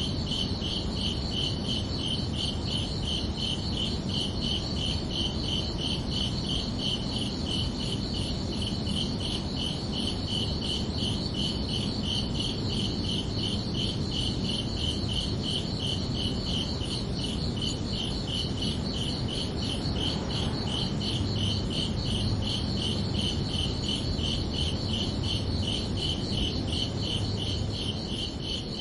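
Crickets chirping in a steady, evenly spaced high-pitched pulse, over a low background rumble.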